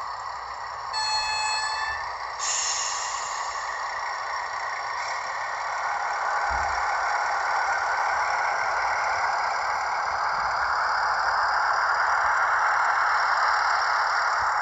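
Model train running along the track: a steady whirring rumble of motor and wheels that slowly grows louder. About a second in comes a short horn-like tone lasting about a second, followed by a brief high hiss.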